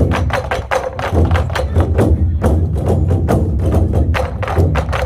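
An ensemble of Korean buk drums playing a fast, steady rhythm of strikes.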